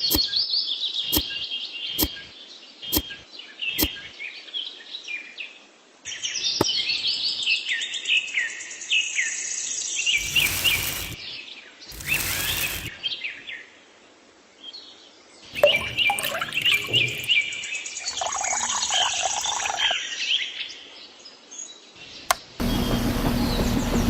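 Birds chirping and twittering in quick rising and falling calls, with a few sharp clicks in the first few seconds and two short loud noisy bursts about halfway through. Near the end a steady buzzing hum starts abruptly.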